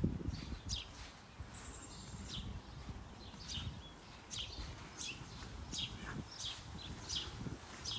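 A songbird chirping over and over: short, high chirps that slide downward, somewhat more than one a second, over a low outdoor rumble that is strongest at the start.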